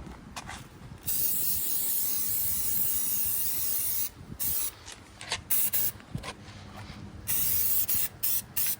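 Aerosol can of Surface Shield corrosion protectant spraying in bursts. There is a long hiss of about three seconds, several short puffs, another hiss of about a second, then a few quick puffs near the end.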